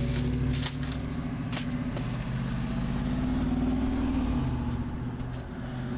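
A car engine running close by, its hum rising a little in pitch through the middle and easing off again near the end. It is heard through a doorbell camera's microphone.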